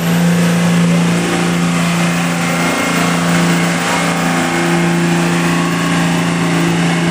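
Diesel pickup truck engine running hard at steady high revs on a pulling run, its pitch holding nearly constant throughout.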